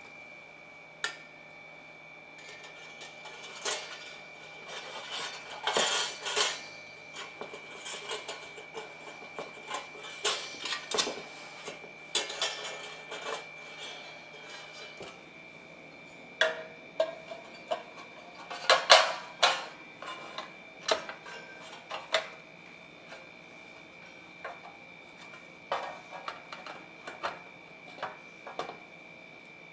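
Irregular light metallic clinks and taps, as of small metal parts being handled and set down, in clusters with pauses between.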